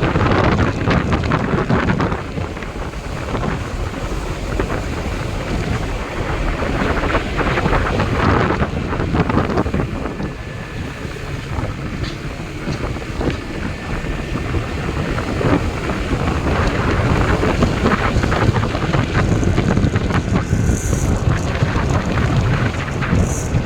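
Wind buffeting the microphone: a loud, rough rushing noise with a low rumble that swells and eases in gusts.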